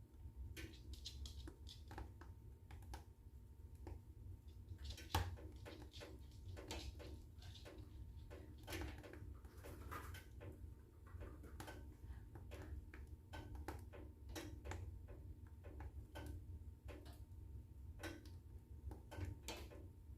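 Wood fire in a fireplace crackling: irregular sharp pops and snaps over a low steady rumble, with one louder pop about five seconds in.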